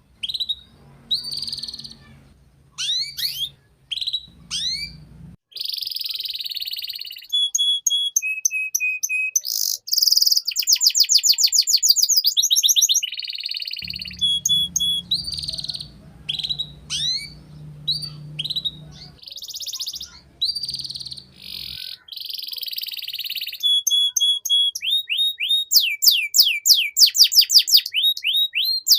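Canary singing a long, varied song: quick upward-sweeping notes, short held whistles and fast rolling trills, one phrase running into the next.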